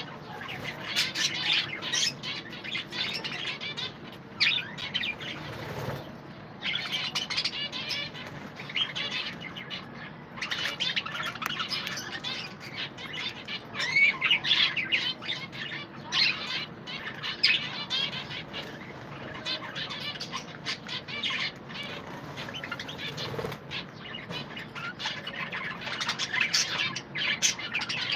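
A colony of budgerigars chirping and chattering all at once, with wing flutters, the chatter dropping off briefly twice.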